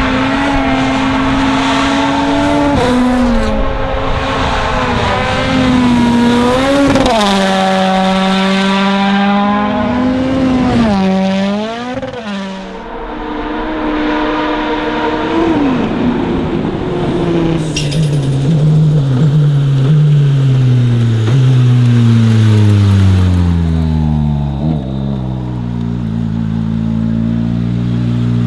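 Toyota Yaris WRC rally car's turbocharged 1.6-litre four-cylinder engine, driven hard. Its note rises and falls repeatedly through the first half, then sinks in a series of steps over the second half.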